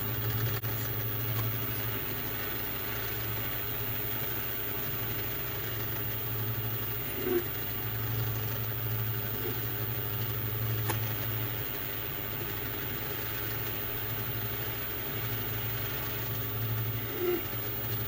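Small lathe's motor running steadily while the tool takes a light finishing pass on 50mm stock, with a couple of brief knocks partway through.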